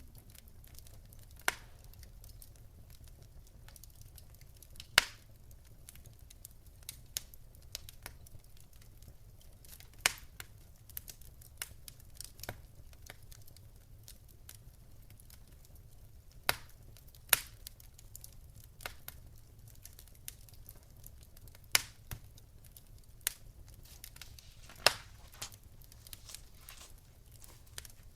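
Wood fire crackling: irregular sharp pops and snaps, a few louder ones several seconds apart, over a faint steady low rumble.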